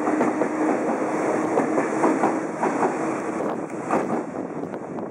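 E259 series Narita Express electric train rolling past the platform, wheels clacking over rail joints, with a steady motor hum that fades out about halfway through. The whole sound dies away as the last cars go by.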